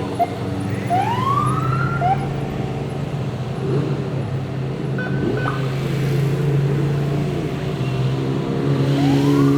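Idling off-road race car engines making a steady hum, with short rising siren whoops about a second in and again near the end.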